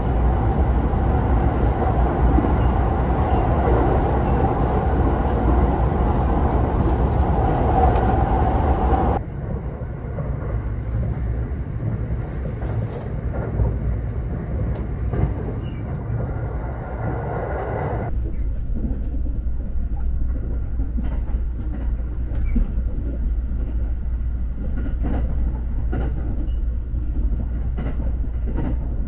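Steady running noise inside a Thunderbird limited express electric train carriage in motion, a low rumble from the rails and the car. It drops abruptly about nine seconds in and shifts again about eighteen seconds in, with a few faint clicks later on.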